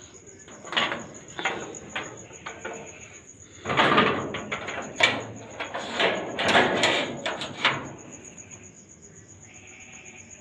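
Shop-front doors of a small roadside stall being slid and pulled shut: a run of scraping slides and knocks, loudest in the middle. A steady high cricket trill runs underneath.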